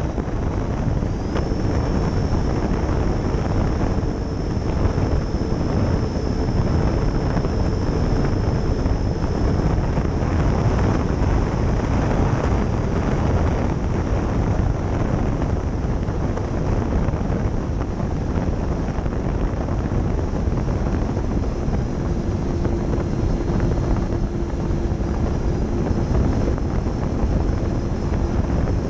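Twin 70mm 12-bladed electric ducted fans of an RC jet running at power in a climb, with heavy wind rush over the onboard microphone. A high fan whine rises about a second in, then holds steady.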